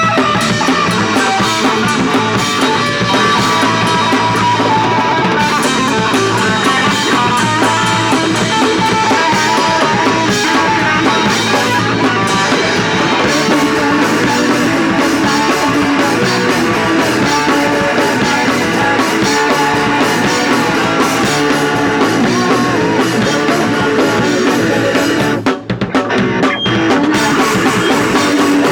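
Punk rock band playing live: loud electric guitars and a drum kit pounding along, with a brief drop-out about three-quarters of the way through.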